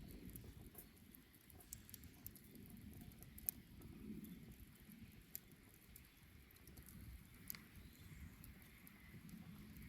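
Faint crackling of a wood bonfire, with a few sharp pops from the burning wood, the loudest about three and a half seconds in.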